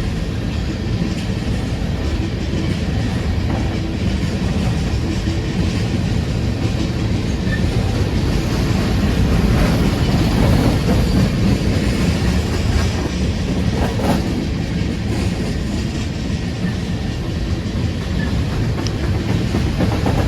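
Freight train rolling past close by: a continuous rumble of wheels and cars on the rails, a little louder about halfway through.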